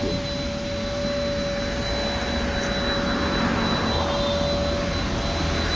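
Car-wash vacuum cleaner running steadily while a car is vacuumed, with a steady whine over the suction noise.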